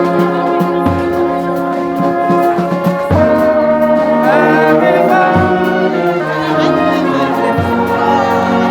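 Brass band playing a slow tune: sustained trumpet and trombone chords over low bass notes that change every couple of seconds.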